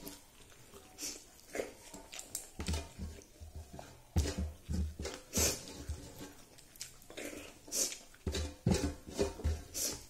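Close mouth sounds of someone eating rice by hand: wet chewing and lip smacks, with fingers squishing and mixing rice on a metal plate, in irregular bursts.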